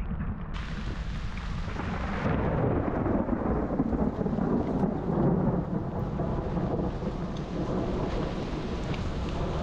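Roll of thunder over heavy rain: the rumble swells about two seconds in, is loudest in the middle and slowly fades, with steady rain throughout.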